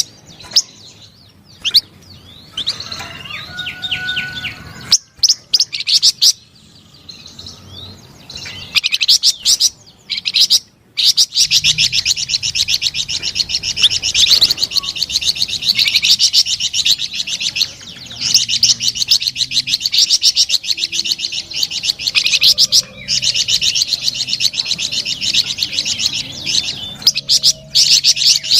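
Flamboyan songbird singing a loud, fast chattering song of rapid high notes. The first seconds come in short phrases with pauses; after about twelve seconds it settles into a long, almost unbroken run that pauses briefly once.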